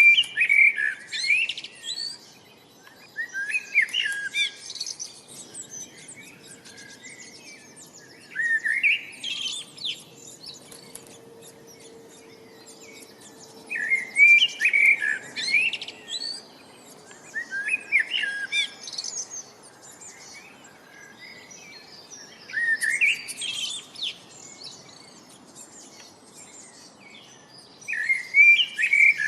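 Bird song: a songbird sings short phrases of rapid, sweeping chirps, each about a second and a half long, repeated every four to five seconds over a faint steady outdoor background.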